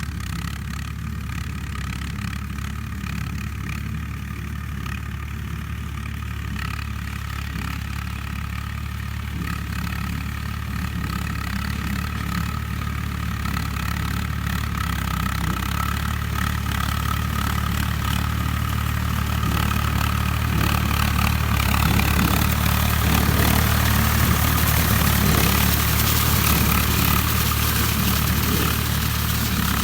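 Swaraj 855 tractor's three-cylinder diesel engine running steadily, getting louder from about a third of the way in and holding there over the last third.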